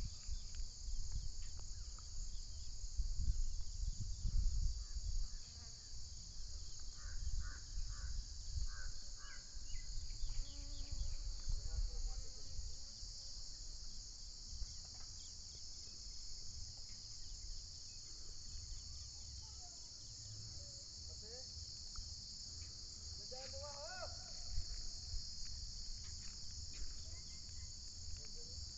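Steady, unbroken high shrilling of an insect chorus. Underneath runs a low rumble, strongest in the first few seconds, and a few short chirps and gliding calls come through now and then.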